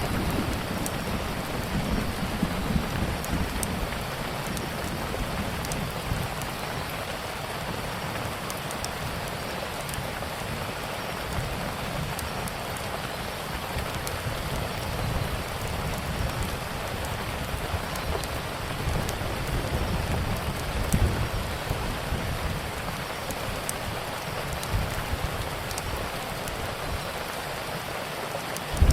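Steady rain falling, mixed with a wood fire crackling in small sharp pops. Low rumbling swells rise near the start and again about two-thirds of the way through.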